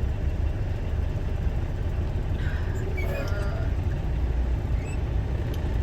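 Steady low road and engine rumble heard inside a truck cab at freeway speed. A faint, brief higher-pitched sound rises above it about halfway through.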